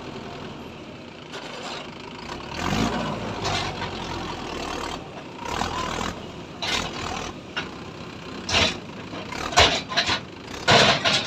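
Tractor diesel engine running at idle, then revving up about two and a half seconds in. A run of short, loud bursts follows in the second half.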